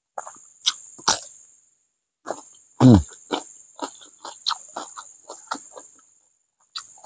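Crunching bites into a raw cucumber followed by steady chewing, about three crunches a second, with a brief low falling mouth sound, the loudest moment, about three seconds in. An insect drones steadily at a high pitch behind it.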